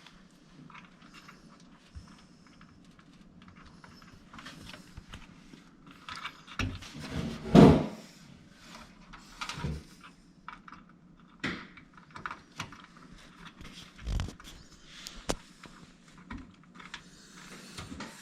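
Irregular clicks, rattles and knocks of computer parts and cables being handled during PC assembly, the loudest about seven and a half seconds in, over a faint steady hum.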